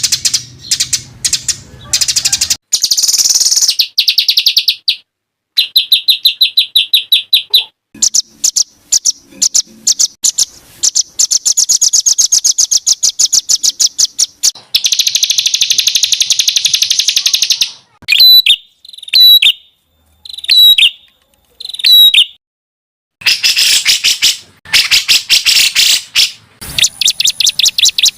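Songbird calls assembled as masteran training material: fast, harsh, tightly packed rattling trills and chatter. Four short separate whistled phrases come in the middle, and the segments start and stop abruptly with brief silent gaps between them.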